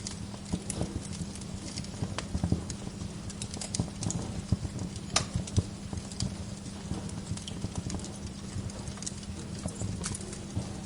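Wood fire burning in a fireplace: a steady low rumble with irregular crackles and sharp pops.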